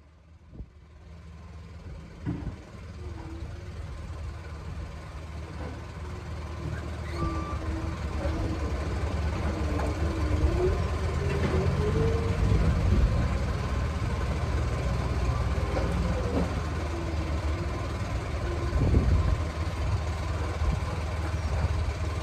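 Heavy truck engine running, growing louder over the first several seconds and then holding steady, its pitch wavering up and down as it revs.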